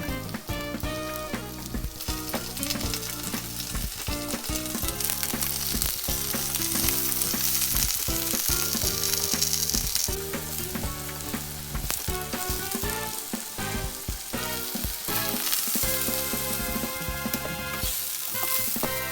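Vegetables sizzling in hot oil in a frying pan as they are pan-grilled, the sizzle swelling louder for a few seconds in the middle and again near the end, with music playing over it.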